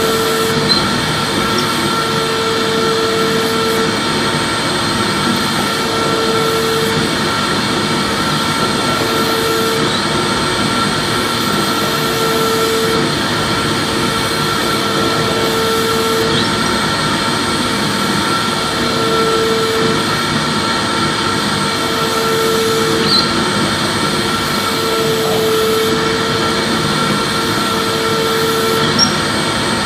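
Vacuum cleaner running steadily, a constant rushing of air with a high motor whine. A lower hum comes and goes every second or two.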